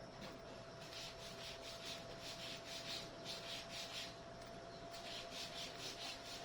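Budgies pecking and husking seeds: faint, rhythmic scratchy clicking, a few pecks a second, fading out near the end.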